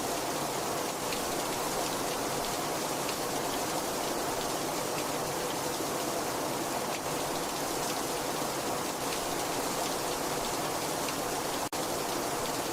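Very heavy rain falling in a steady, dense hiss, with a split-second break in the sound near the end.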